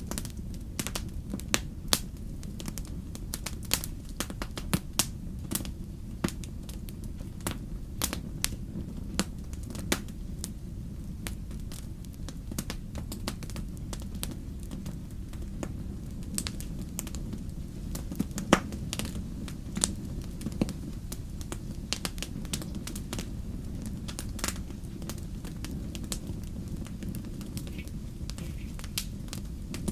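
Wood fire burning with irregular crackles and sharp pops over a steady low rumble of flame.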